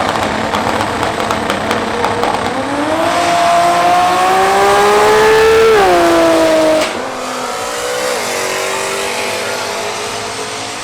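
Race cars accelerating hard. Their engine note climbs steadily and grows louder, then drops sharply at an upshift about six seconds in and again about two seconds later, as the cars pull away.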